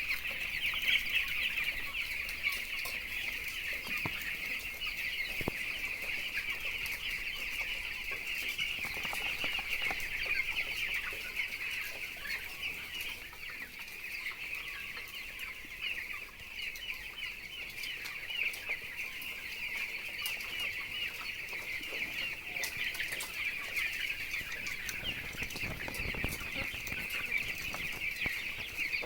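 A large flock of chicks peeping continuously, a dense chorus of many short high chirps overlapping without a break.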